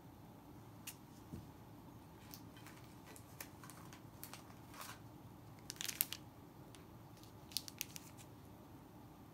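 Scattered crisp rustling, crinkling and snapping handling noises against a quiet room, with the loudest cluster about six seconds in and another short run just before eight seconds.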